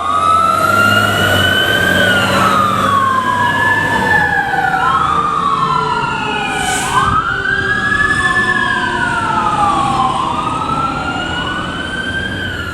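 Fire truck sirens wailing, rising and falling in pitch every two to three seconds, with several sweeps overlapping. Under them a second, steady siren tone falls slowly in pitch over several seconds. A truck engine hums low beneath, and the sound eases off slightly near the end.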